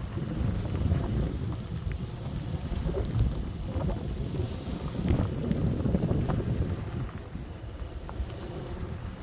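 Strong wind gusting against the microphone, a rough low rumble that surges and eases, strongest about five to six seconds in and dropping back near the end, with a few faint ticks.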